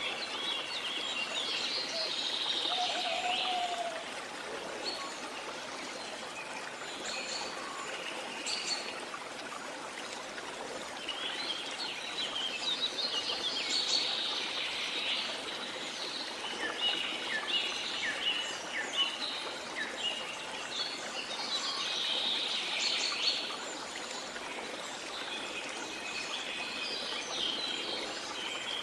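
Several jungle birds chirping and calling in scattered bursts over the steady rush of a waterfall.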